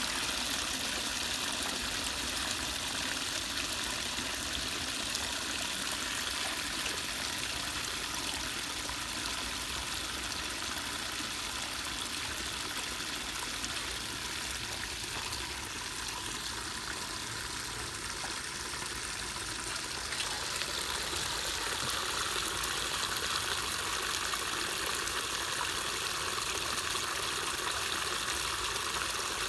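Floodwater flowing steadily through an unclogged culvert drain, a continuous rushing and trickling.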